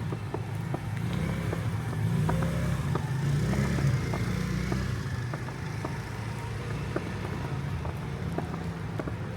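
City street at night: a motor vehicle's engine running close by, swelling about two seconds in and easing off again, with footsteps on a snowy sidewalk at about two steps a second.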